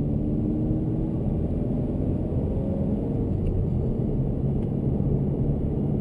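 2015-2019 Ford Mustang EcoBoost's turbocharged 2.3-litre four-cylinder with the factory exhaust, heard from inside the cabin while driving: a steady low rumble with faint engine tones that drift slightly in pitch. The stock exhaust's quiet, not very impressive sound.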